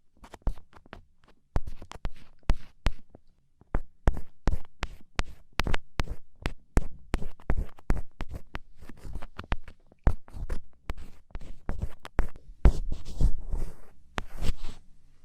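Ear pick scraping inside an ear canal during earwax removal: an irregular run of sharp clicks and crackles, several a second, getting denser and more rustly a little before the end.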